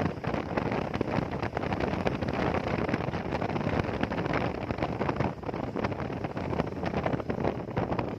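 Wind buffeting the microphone of a rider on a Hero Xpulse 200 motorcycle, a steady crackly rush over the bike's road and running noise.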